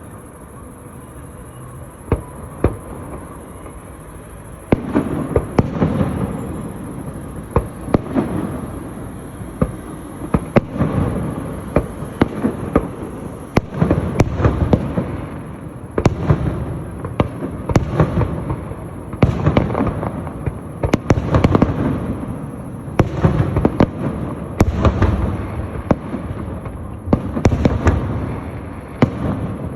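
Fireworks show: a few scattered sharp bangs at first, then from about five seconds in a dense, continuous volley of cracking bursts and deep booms.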